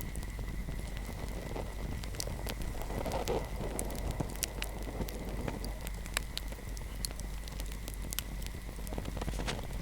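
Wood fire crackling, with irregular sharp pops and snaps over a soft rushing of flames that swells briefly about three seconds in.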